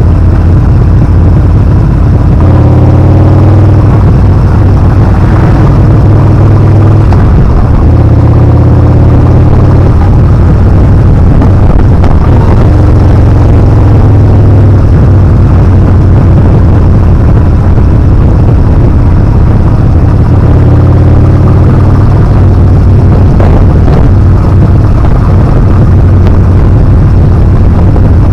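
Yamaha Bolt R-spec's air-cooled V-twin running hard under way, its pitch rising and dropping several times with the throttle, under loud wind rush on the action camera's microphone.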